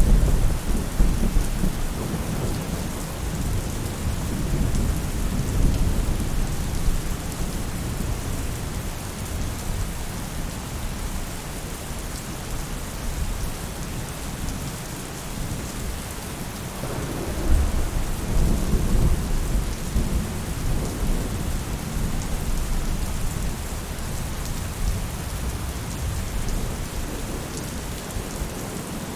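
Steady rain falling on a roof. Low rolling rumbles of thunder come at the start and again about two-thirds of the way through.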